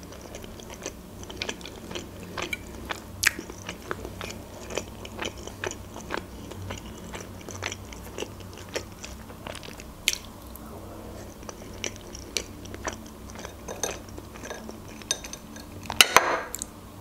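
Close-miked chewing of a creamy mayonnaise salad: soft, wet mouth sounds with many small clicks. Near the end there is one louder knock.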